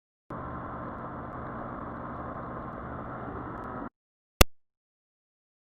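Yamaha Virago XV400's V-twin engine running steadily for about three and a half seconds, starting and cutting off abruptly where the recording's sound drops out, then a single sharp click.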